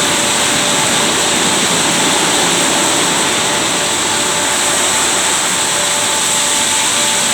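Christ Genius rollover car wash machine running steadily: a loud, even rush with faint steady motor tones.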